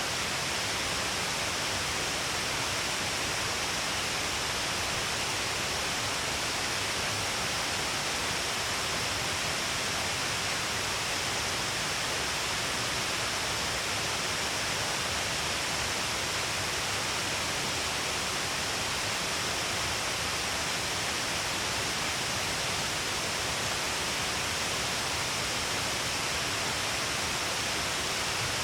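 Steady rushing of falling water from the Shiraito Falls, an even hiss with no breaks or single events.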